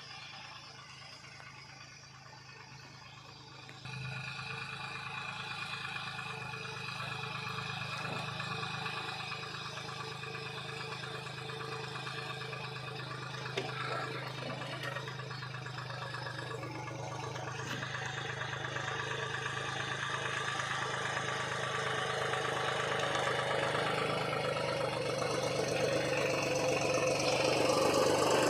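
Deutz-Fahr tractor's diesel engine running steadily. It steps up in loudness about four seconds in and keeps growing louder toward the end.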